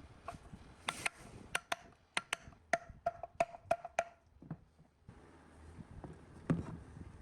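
A series of sharp taps of metal striking metal, about a dozen over three seconds, several leaving a brief ringing note, followed after a pause by one duller knock near the end.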